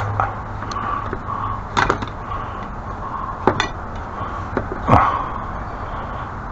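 Several sharp knocks and clatters over a steady background noise, the loudest about five seconds in.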